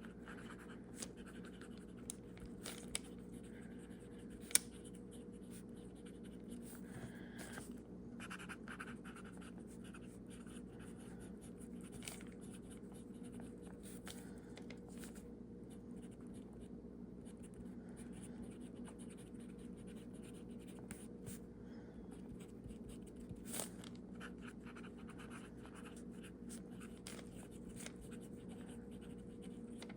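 Fountain pen with a medium nib writing on paper: faint scratching strokes. A sharp click about four and a half seconds in, and a steady low hum underneath.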